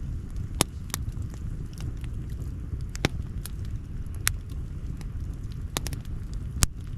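Outdoor campfire crackling: irregular sharp pops and snaps of burning wood, about eight in all, over a steady low rumble.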